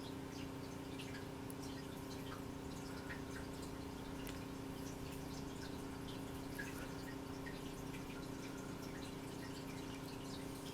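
Steady low electrical hum with faint, scattered light clicks and ticks from small plug parts being handled and fitted onto the headphone cable.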